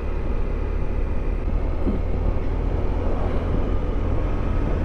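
Steady wind and road noise at a rider's helmet microphone while riding a motorcycle at speed, with a low engine drone underneath.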